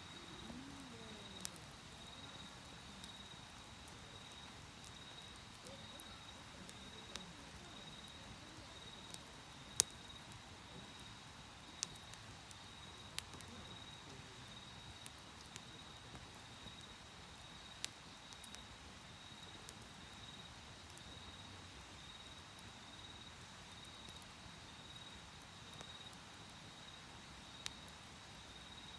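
Wood fire crackling in a steel fire-pit dish, with sharp pops every second or two, the loudest about ten seconds in. Behind it, autumn insects chirp steadily at a high, even pulse.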